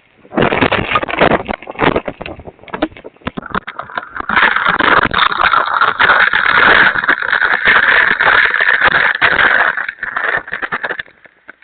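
Hurricane-force wind and rain battering a security camera's microphone, heard through its narrow, tinny audio. It buffets in gusts at first, swells into a sustained loud blast about four seconds in, and eases off near the end.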